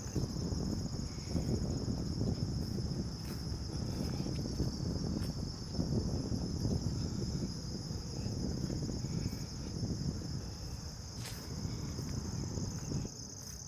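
Steady high-pitched chorus of crickets and other summer insects, over uneven low rustling noise.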